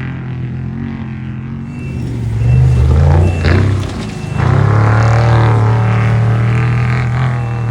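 Off-road race vehicle engine running hard as it passes close by, getting loud about two seconds in, dipping briefly, then loud again with the pitch bending as it revs and moves away.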